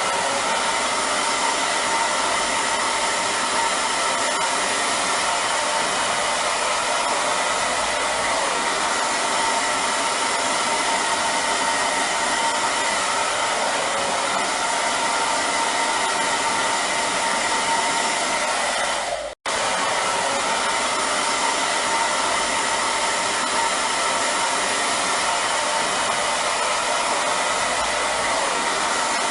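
Hair dryer running steadily: a continuous rush of blown air with a faint steady whine. It cuts out for a split second about 19 seconds in and comes straight back.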